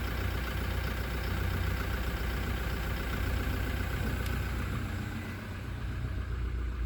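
Toyota Hilux engine running at about idle in gear, with the transfer case in 4H so both the rear and front wheels are turning. The steady hum dips briefly about five seconds in.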